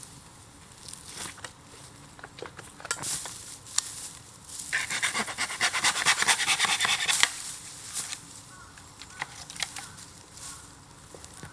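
Bamboo bonfire crackling with scattered sharp pops. About five seconds in, a loud run of rapid crackling and hissing lasts some two and a half seconds before it settles back to occasional pops.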